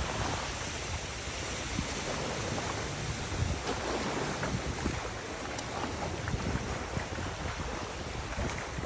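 Wind blowing steadily, buffeting the microphone with a low rumble under a constant rushing hiss.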